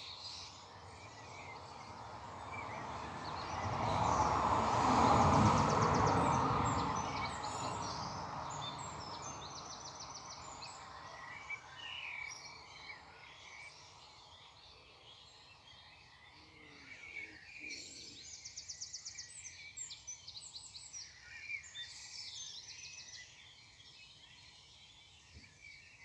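Morning birdsong: several birds chirping, with quick high trills now and then. A broad rush of noise swells to a peak about five seconds in and fades away over several seconds, louder than the birds.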